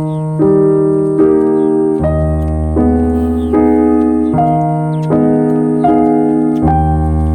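Background music: piano playing slow held chords over low bass notes, with the chord changing a little under once a second.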